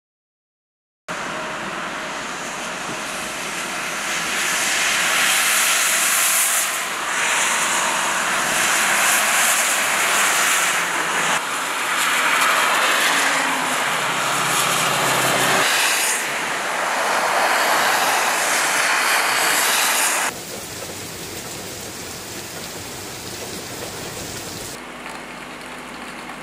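Heavy rain falling, with wind, as a steady hiss that starts about a second in. It changes abruptly in loudness and tone several times across a run of edited shots, and is quieter over the last few seconds.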